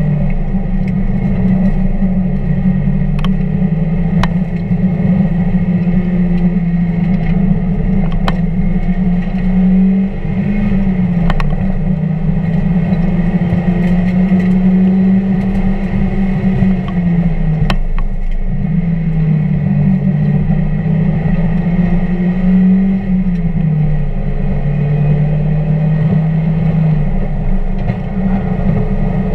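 1999 Mazda Miata's four-cylinder engine running steadily on track, its note dropping and rising again a few times, over road and wind noise, with a few sharp clicks.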